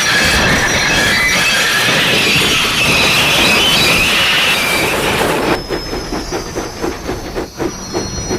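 Steam locomotives braking hard: brakes and wheels screech loudly on the rails with high ringing tones for about five and a half seconds. Then the screech drops away into a run of rhythmic knocks, about three a second, as the trains slow.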